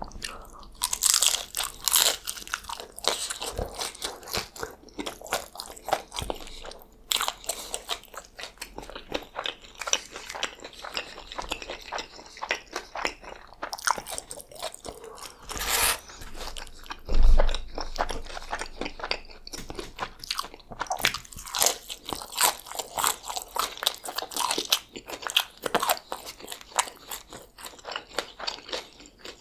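Close-miked crunching and chewing of crispy fried birria tacos, bite after bite, with one louder, deeper thump a little past halfway.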